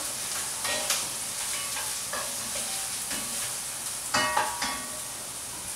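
Chopped onions sizzling in olive oil in a pot as they are stirred, with a few short scrapes of the stirring utensil, the loudest about four seconds in.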